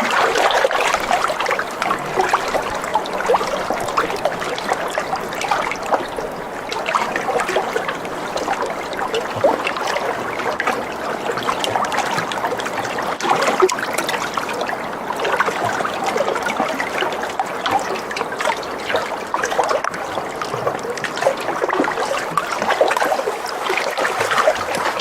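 Water trickling and splashing steadily, a continuous dense run of small splashes.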